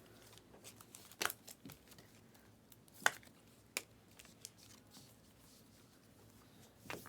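Trading cards being handled during a box break: a few scattered light clicks and scuffs of cards and packaging, with quiet room tone between them.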